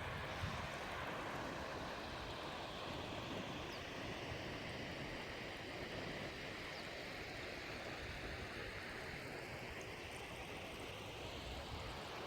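Steady rush of running water, an even hiss with no change in strength.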